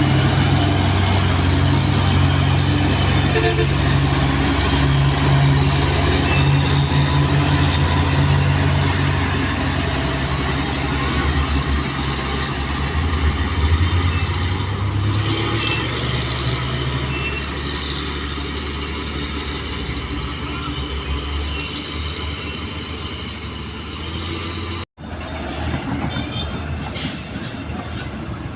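Heavy truck's diesel engine running close by over a steady wash of road and traffic noise; its low drone is strong at first and fades away after about seventeen seconds. The sound cuts out for an instant near the end.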